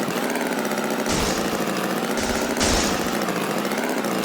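A steady engine-like drone, with two short hissing bursts about a second and two seconds in.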